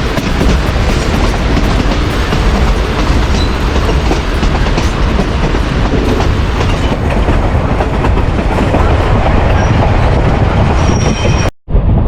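Durango & Silverton narrow-gauge train heard from on board: wheels rolling and clattering over the rails with a steady rumble, loud and continuous, broken by a brief dropout near the end.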